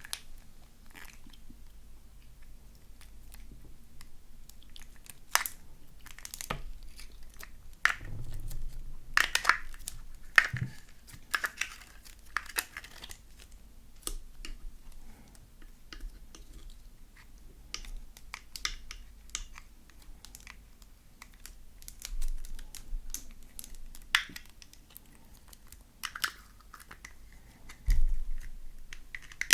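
Slime being squeezed and stretched by hand, giving irregular sticky crackles and pops.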